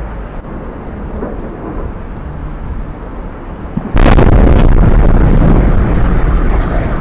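A low rumble, then about four seconds in a sudden, very loud explosion whose boom lasts a couple of seconds before easing off. A faint high whistle falls in pitch near the end.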